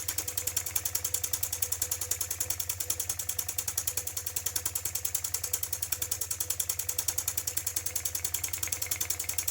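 IND-X electrically heated toy steam engine running steadily on steam, its cylinder exhaust chuffing in a fast, even rhythm of about ten beats a second.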